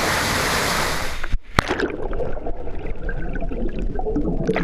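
Rushing water, which cuts off suddenly about a second in and gives way to a duller, gurgling water sound with a sharp click.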